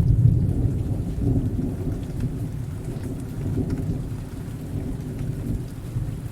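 Thunder rumbling low and long over steady rain, loudest at the start and slowly dying away.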